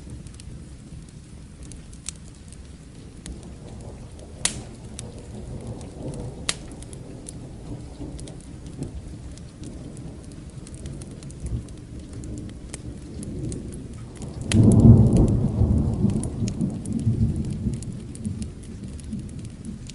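Steady rain mixed with the sharp pops and crackles of a wood fire. A low thunder rumble builds from about three seconds in, and a loud clap of thunder breaks about fifteen seconds in, rumbling on for a few seconds before it fades.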